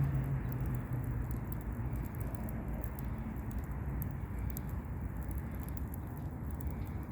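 Campfire of burning twigs crackling, with many small scattered pops over a steady low rumble.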